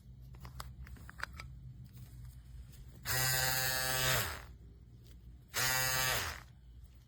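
TPOB Mini Skull compact electric shaver's motor switched on twice, buzzing for about a second each time and dropping in pitch as it winds down when switched off. A few faint handling clicks come before.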